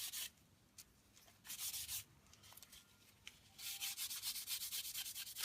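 Knife handle parts being wiped clean with acetone before gluing: quick back-and-forth rubbing strokes in spells, a short one about one and a half seconds in and a longer one from about three and a half seconds on.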